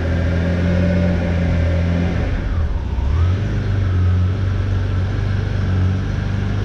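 1990 Ferrari Testarossa's flat-12 engine running just after a cold start, steady, its note shifting briefly about three seconds in.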